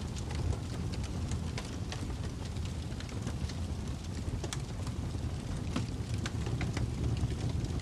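Wood fire crackling: a steady low rumble of flames with many small, irregular pops and snaps.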